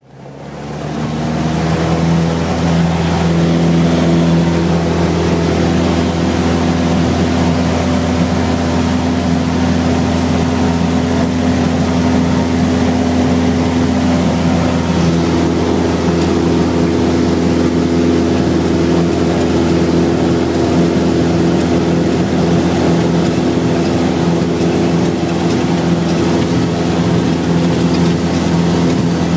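Cessna 172 floatplane's piston engine and propeller running at steady power, a constant drone. It fades in over the first couple of seconds.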